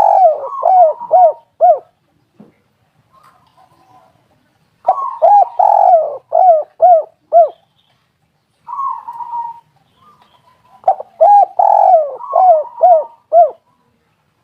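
Spotted doves (tekukur) cooing: three loud phrases of about six rounded coos each, a few seconds apart, with a shorter, fainter call between the second and third.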